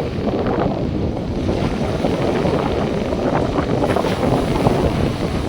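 Wind buffeting the microphone over the steady wash of North Sea surf on the beach.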